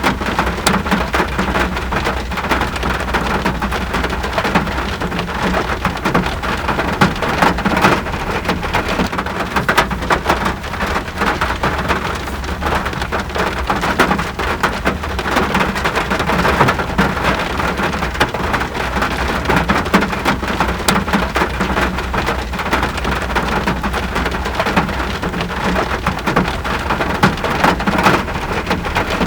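Steady heavy rain, dense and even, with many distinct drop hits and a steady low rumble underneath.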